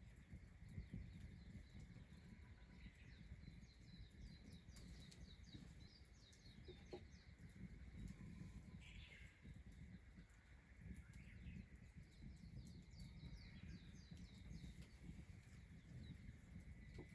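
Faint outdoor ambience with a wild bird singing, two runs of quick high chirps, over a low steady rumble.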